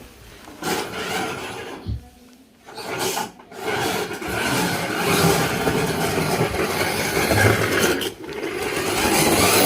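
Child's ride-on toy car rolling, its plastic wheels grinding and scraping on a hard floor. The grinding drops away briefly about two seconds in and again near the end, then picks up.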